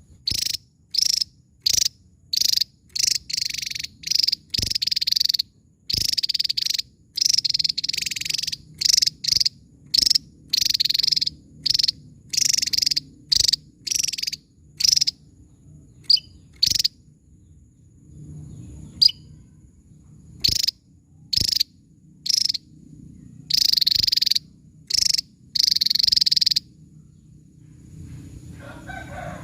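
Javan tesia calling: a long run of sharp, buzzy high bursts, some very short and some up to about a second long, thinning out briefly in the middle before picking up again.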